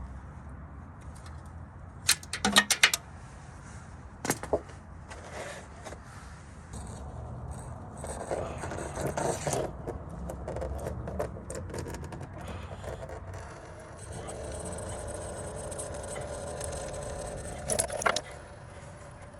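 Metal tools and parts clinking, rattling and scraping as an engine's oil filter is taken off. There is a quick cluster of sharp clinks about two seconds in and another clink near the end.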